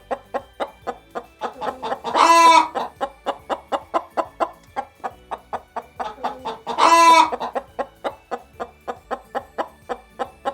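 Chicken clucking in short, quick clucks, about three or four a second, broken twice by a longer, louder squawk.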